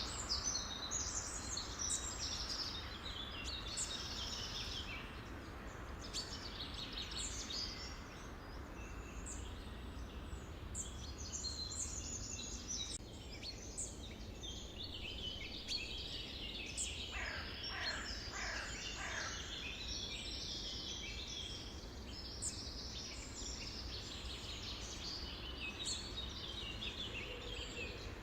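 A busy chorus of many birds chirping and calling at once, with short, high notes overlapping throughout, over a steady low background noise. About two-thirds of the way through, a few lower calls sweep downward in pitch.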